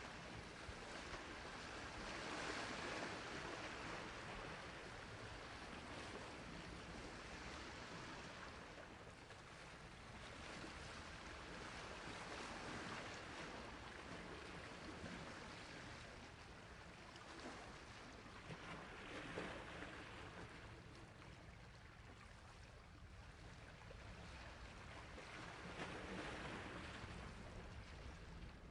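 Sea waves washing on a shore, each wave rising as a rush of surf and falling back, a swell every several seconds.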